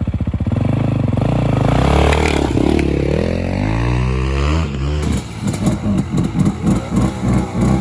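Dirt bike engine running and revving, its pitch rising and falling. From about five seconds in it runs unevenly, in loud and soft pulses.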